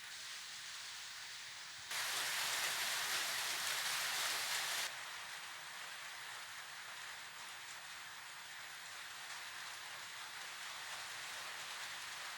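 A steady hissing noise, with a louder, even hiss that starts abruptly about two seconds in and cuts off about three seconds later.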